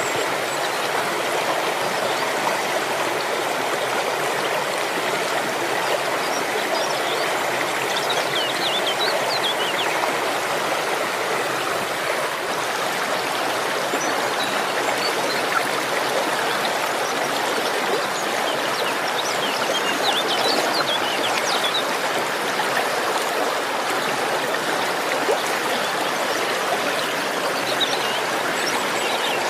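Waterfall and its stream rushing steadily, a constant even wash of falling and flowing water.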